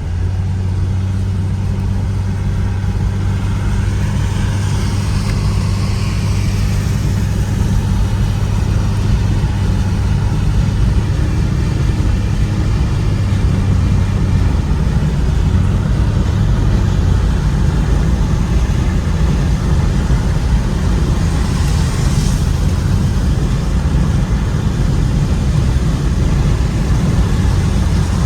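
Ford Mustang cruising on a wet road, heard from inside the cabin: a steady low drone of engine and tyre noise, with a brief hiss about 22 seconds in.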